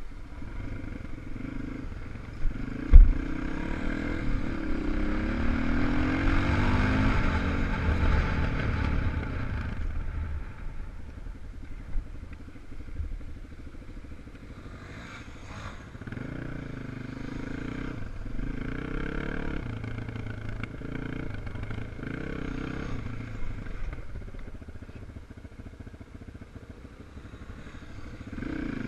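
Single-cylinder 250 cc enduro motorcycle engines revving up and down on a dirt track, louder for several seconds early on and again past the middle. A single sharp thump about three seconds in.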